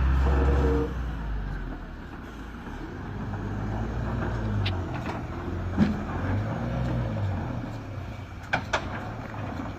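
Heavy truck's diesel engine running, loudest in the first second, its note rising and falling in pitch. A few sharp knocks come about six seconds in and twice near the end.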